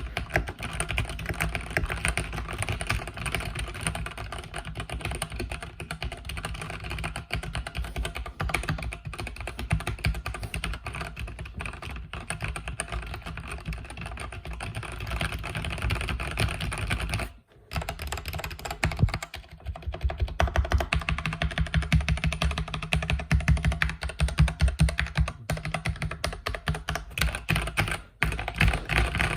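Continuous fast typing on a mechanical keyboard with linear red switches: a dense patter of key clicks and thocks, pausing briefly twice in the second half.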